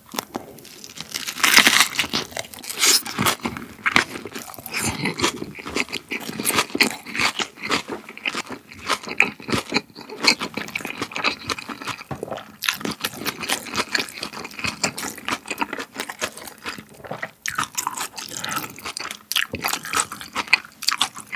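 Close-miked chewing of a raw onion wrap (yangpa-ssam): a bite at the start, then a long run of crisp, fast crunches as the onion is chewed.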